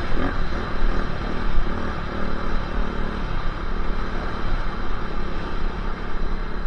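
Dirt bike engine running while the bike is ridden, its loudness rising and falling as the throttle changes.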